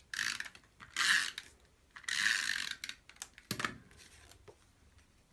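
Snail adhesive tape runner rolled across card stock in four quick scratchy strokes, laying double-sided adhesive, followed by a short knock about three and a half seconds in.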